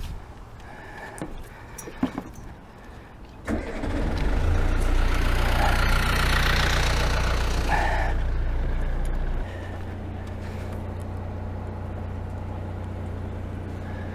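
Perkins 4-108 four-cylinder marine diesel starting about three and a half seconds in, after a few small knocks. It runs loud for several seconds, then drops abruptly to a steady, quieter idle about nine seconds in.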